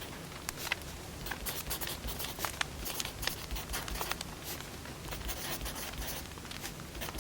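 Wood fire burning, with irregular crackles and sharp pops of the firewood over a low steady hiss.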